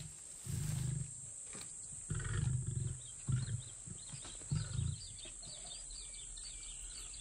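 Lion giving a series of about four deep grunts over several seconds, the grunting calls of a roar. Faint birds chirp behind it.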